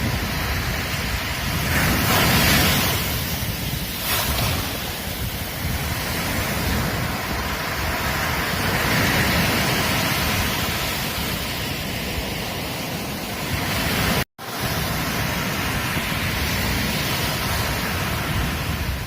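Ocean surf: waves breaking and washing on a beach in a continuous rush that swells several times. About two-thirds of the way through, the sound cuts out for an instant.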